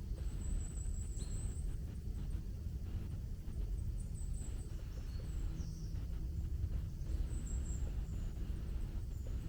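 Footsteps through the forest with a steady low rumble, and short high bird chirps three times.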